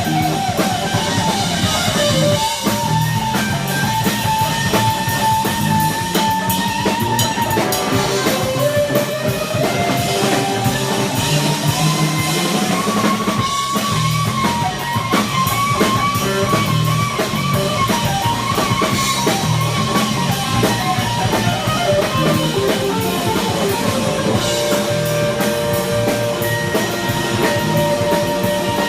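Live rock band with guitar and drum kit playing an instrumental jam. A lead line of long, bending notes glides up and down over a steady drum beat.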